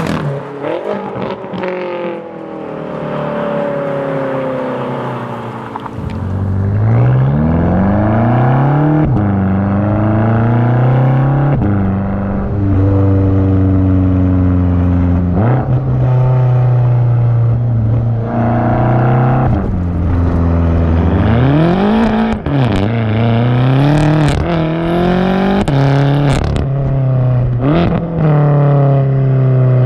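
BMW F10 M5's 4.4-litre twin-turbo V8 through a straight-pipe muffler bypass exhaust with race resonators, pulling through the gears: the exhaust note climbs, drops sharply at each shift and holds steady in between. It is quieter for the first few seconds and gets louder about six seconds in.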